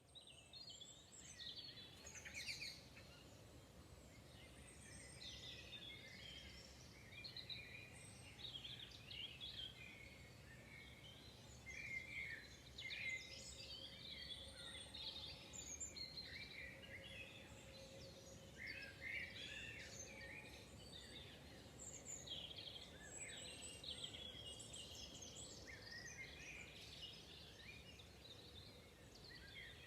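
Several wild songbirds singing and calling at once in a chorus of overlapping chirps and song phrases, with a faint steady low hum underneath.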